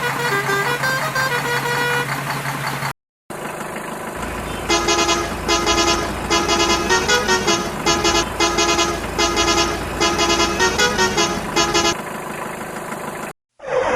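A vehicle horn tooting a tune in many short notes over a low, steady engine hum. Two brief cuts to silence break it up.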